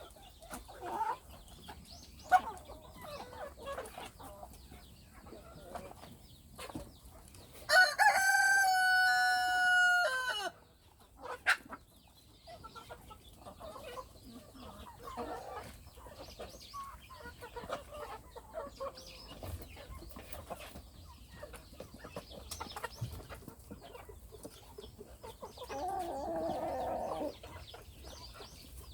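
Chickens clucking, with a rooster crowing loudly once about eight seconds in, lasting nearly three seconds; a shorter, quieter call comes near the end.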